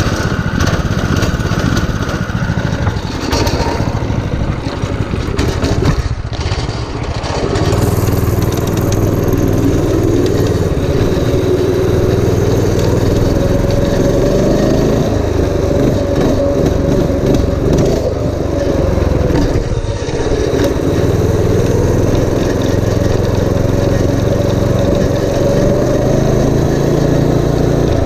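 Predator 212cc single-cylinder four-stroke engine on a minibike, running steadily at first. From about eight seconds in its pitch rises and falls over and over as it is throttled up and down.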